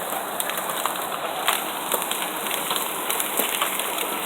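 Heavy rain and hail: a steady hiss of pouring rain with scattered sharp ticks and knocks of hailstones striking hard surfaces.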